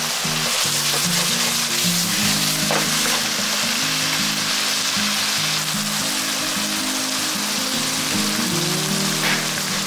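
Eggplant and ground-pork stir-fry sizzling steadily in a frying pan over a gas flame, with background music playing.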